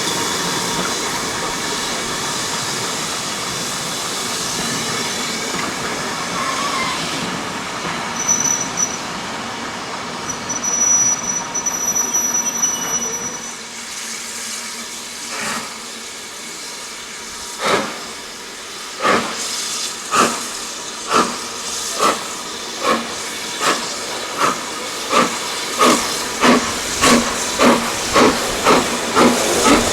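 Steam locomotive starting away: a steady hiss of steam, then exhaust beats begin about halfway through, slow at first and quickening steadily as it gathers speed.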